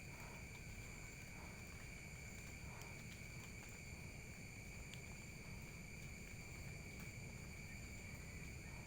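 Faint, steady chorus of night insects, such as crickets, trilling at several high pitches without a break, over a low rumble.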